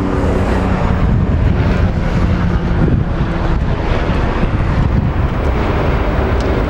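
2008 Harley-Davidson Street Glide's Twin Cam 96 V-twin idling steadily through Vance & Hines True Dual exhaust.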